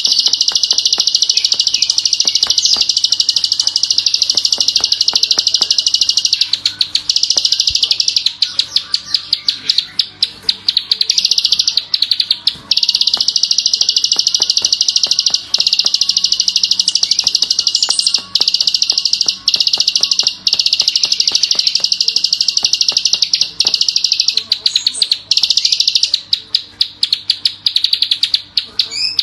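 A small songbird (the 'klik-klik' bird) singing a very rapid, unbroken high-pitched clicking trill, loud and nearly continuous. Twice it breaks into looser runs of separate clicks, once about a quarter of the way in and again near the end.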